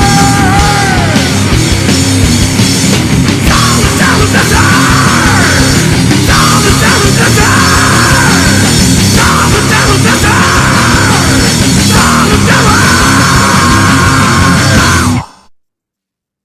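Loud heavy rock music that cuts off abruptly about fifteen seconds in, ending the song.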